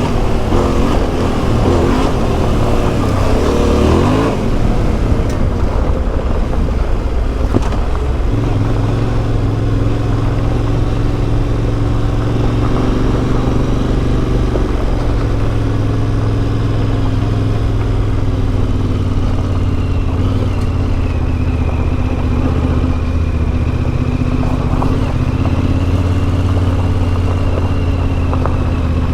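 Yamaha Ténéré 700's CP2 parallel-twin engine through an Akrapovic exhaust, ridden on the move. It revs up and down through gear changes for the first few seconds, then runs at a fairly steady speed.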